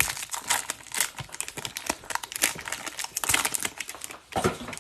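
Foil wrapper of a hockey trading card pack crinkling and crackling as it is opened by hand, with cards being handled.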